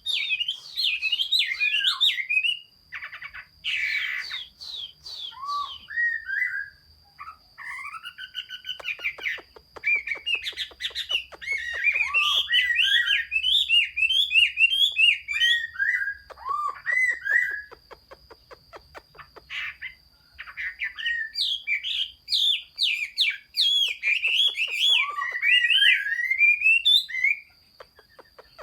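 Chinese hwamei singing a long, varied song of loud whistled and slurred phrases broken by rapid rattling trills and short pauses. The song stops about a second before the end.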